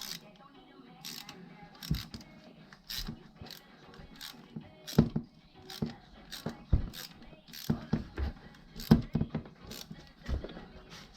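Hand tools working on metal: irregular sharp clicks and knocks, with a few heavier metal knocks in between.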